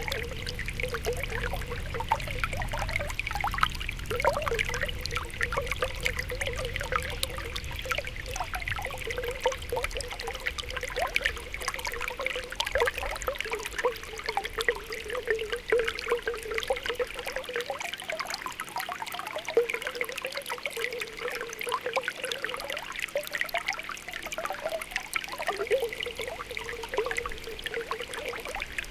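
Spring water welling up out of the ground, popping and bubbling continuously, with a steady trickle beneath many small pops.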